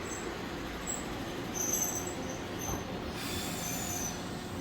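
A train pulling into a station and slowing to a stop, with a steady running rumble and thin, high squeals that come and go from about a second and a half in as it slows.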